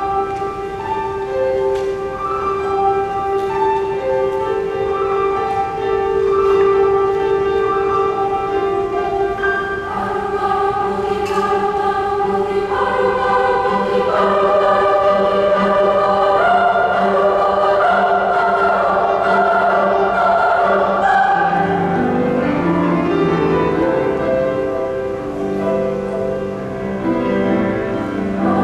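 Choir singing in parts: one long held note sounds under a moving melody, lower voices come in about a third of the way through, and the texture grows fuller near the end.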